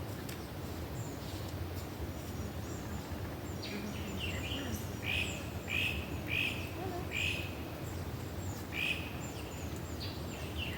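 A bird calling: a run of short, repeated chirping notes, about two a second, through the middle stretch, with fainter high chirps over a steady low background rush.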